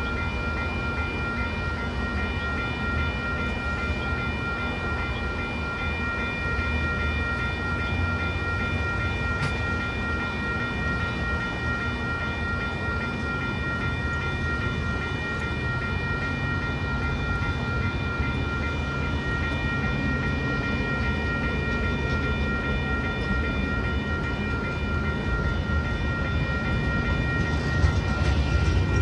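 Metra bilevel commuter train moving slowly along the platform: a steady low rumble with a high steady whine over it. The rumble grows louder near the end as the train picks up speed.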